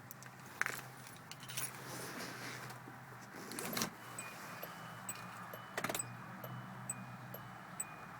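Car keys jangling and clicking as they are handled, with several sharp clicks. A faint, evenly spaced high electronic pip sounds about twice a second in the second half.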